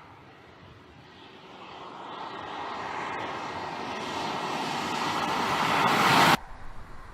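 Noise of an approaching vehicle, a rushing sound that grows steadily louder for about five seconds and then cuts off abruptly.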